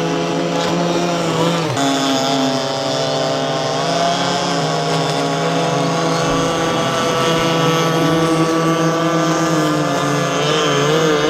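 Gas engine of a Pro Boat Rockstar RC catamaran running steadily, with a slight shift in pitch about two seconds in and a wavering pitch near the end.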